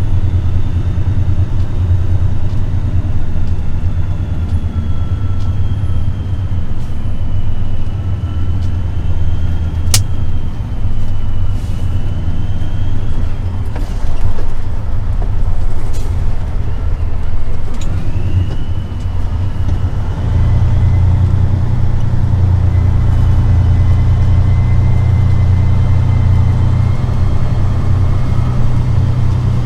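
Heavy truck's diesel engine running, a steady low drone that gets louder about twenty seconds in, with a sharp click about ten seconds in.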